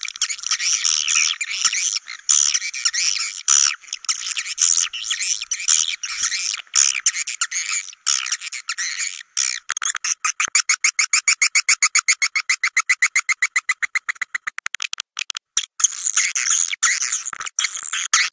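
Swiftlets calling: dense, high chirping and twittering, with a stretch of fast, even chirps at about nine a second through the middle. It is a swiftlet call-lure sound, meant to draw swiftlets in and get them to roost.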